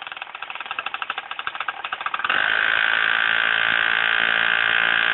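Motorbike engine idling with a fast putter from an exhaust pipe capped with a condom, then revved about two seconds in and held at a steady high note.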